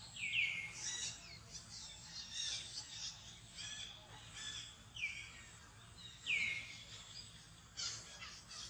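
Birds calling: a loud down-slurred call three times, over scattered short chirps.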